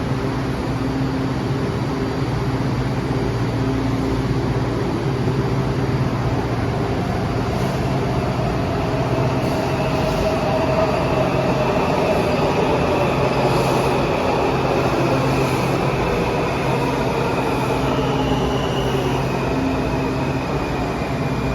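Washington Metro (WMATA) train at a station platform: a steady rumble, joined from about eight seconds in by a motor whine of several tones that shift slowly in pitch.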